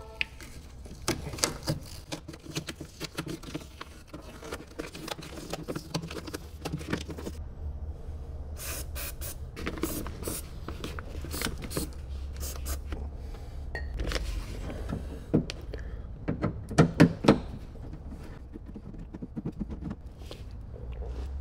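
Hand work on a car door: scattered clicks, taps and scrapes of tools and door parts being handled, with a loud cluster of knocks about two-thirds of the way through, over a low steady hum.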